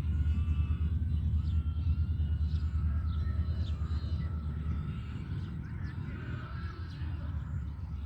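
Low rumble of a train on the track, slowly fading as it moves away, with birds chirping and calling over it.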